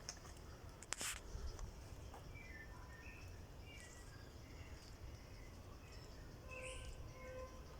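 Faint songbird calls: scattered short, high chirps and notes from a bird in the woods, over a low steady background rumble. A sharp click about a second in is the loudest sound.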